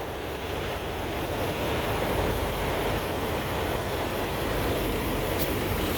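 Steady rumble and hiss of engine noise, growing slightly louder over the first two seconds and then holding even.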